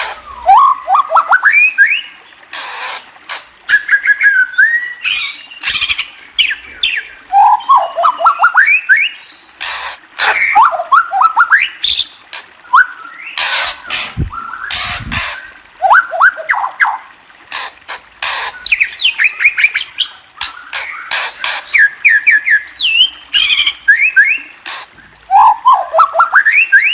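A songbird calling in repeated bursts of quick rising chirps, with many sharp clicks between and among the phrases. There is a low thump about 14 seconds in.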